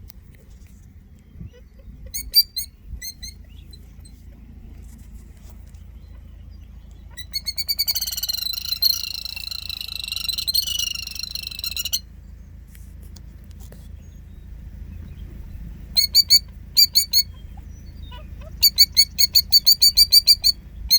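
Killdeer alarm-calling at an intruder close to her nest: a few short shrill notes, then a long trilling call lasting about four seconds, and later a fast run of repeated sharp notes. A steady low rumble runs underneath.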